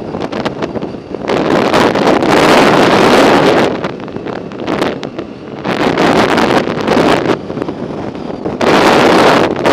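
Wind buffeting the microphone of a camera carried on a moving bike, a loud rushing noise in gusts that swell and ease off every few seconds.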